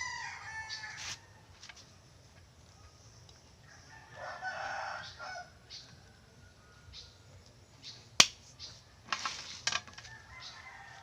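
Rooster crowing, the call fading out about a second in, with a second shorter call around four seconds in. A few sharp clicks or taps near the end.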